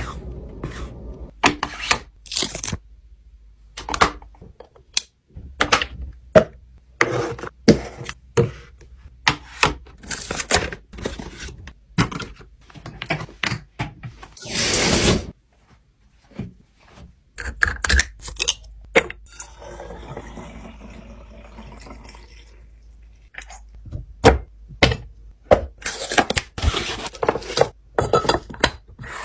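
Food containers and packaging handled and set down one after another: a long string of knocks, taps and clatters, with a short rustling hiss about halfway through.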